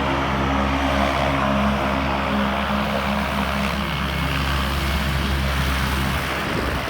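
Cessna 208B Grand Caravan EX's single Pratt & Whitney PT6A-140 turboprop and propeller running, a steady propeller hum of several even tones over a low rumble that eases off near the end.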